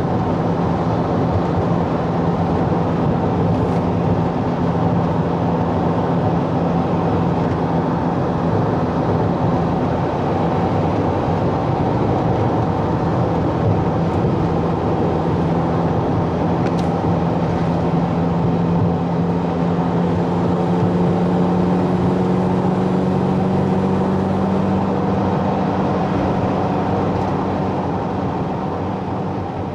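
A road vehicle driving at steady speed: an even engine drone over road noise, its pitch creeping up a little about two-thirds of the way through, and fading near the end.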